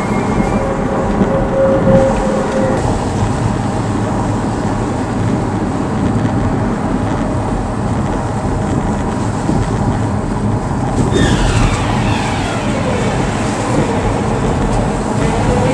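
Car cabin driving noise: steady engine and tyre rumble from a car on the road, with a whine falling in pitch a few seconds before the end.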